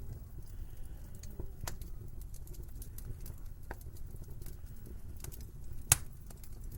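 Wood fire crackling in a fireplace: scattered sharp snaps and ticks over a steady low rumble, with one loud pop about six seconds in.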